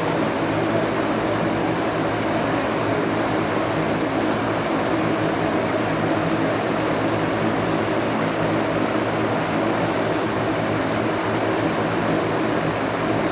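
A steady mechanical hum with a rush of noise, unchanging throughout.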